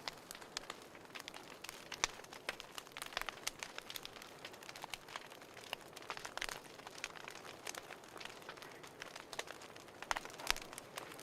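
Wood fire crackling in a fireplace: irregular sharp pops and snaps over a soft hiss, with a couple of louder pops near the end.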